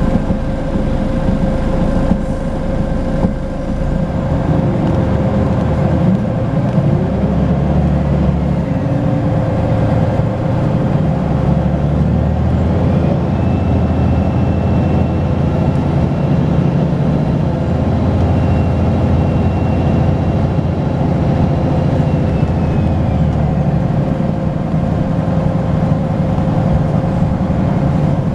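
Volvo B10BLE bus's six-cylinder diesel engine running under way, its note shifting as it pulls, over a steady whine. About halfway through, a high turbo whistle rises, holds for several seconds, and falls away again.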